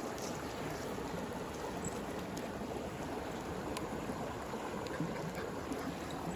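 Stream flowing steadily, with scattered sharp crackles from a campfire.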